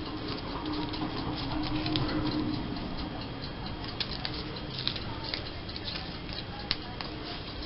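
Light, irregular clicks and rustling of hands handling small scrapbooking supplies on a tabletop: paper, a glue dot and self-adhesive rhinestones.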